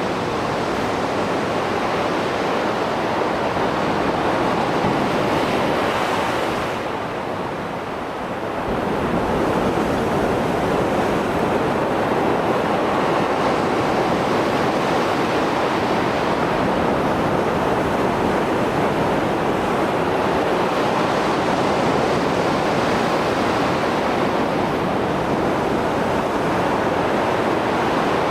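Rough Mediterranean surf after a storm: waves breaking and washing in a steady rush, easing briefly a quarter of the way in before the next wave surges back.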